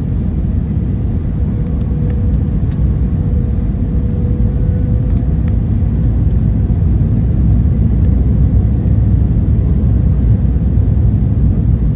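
Steady low rumble of Airbus A321-200 cabin noise, the engines and airflow heard from an economy seat, with a faint steady hum and a few light ticks.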